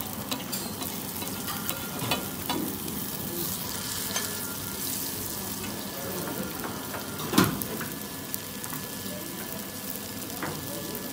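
Aloo tikki (potato patties) sizzling steadily in oil on a large flat tawa griddle, with scattered clicks and scrapes of a metal spatula against the griddle; one sharper clack about seven seconds in is the loudest.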